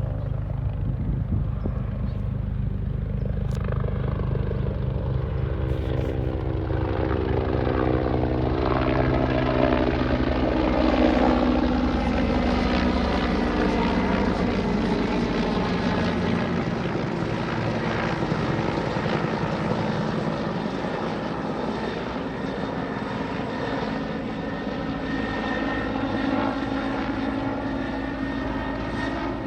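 Los Angeles County Fire Department helicopter coming in to land: the beat of its rotor grows louder and peaks about a third of the way in, then gives way to a steadier, higher whine with rotor noise.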